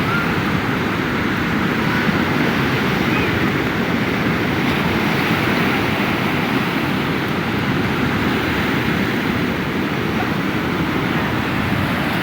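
Sea surf breaking and washing up the beach, a steady rushing noise, with wind buffeting the microphone.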